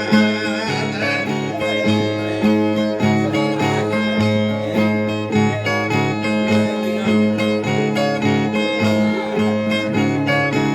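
Brazilian viola (the steel-strung ten-string guitar of northeastern cantoria) playing a steady, repeating plucked instrumental interlude between sung stanzas, over sustained low notes.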